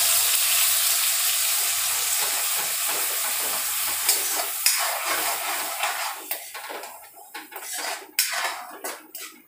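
Onion, garlic and green chilli paste sizzling in hot oil with cumin in a metal kadhai: a loud, steady hiss that slowly dies down as the wet paste cooks. In the last few seconds a spoon stirs and scrapes the pan in short, separate strokes.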